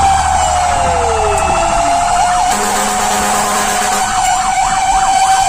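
Fire engine siren sounding while responding. A steady high tone holds while a second tone slides down in pitch over the first two seconds, then a rapid up-and-down yelp warble of about three sweeps a second joins in from about four seconds in.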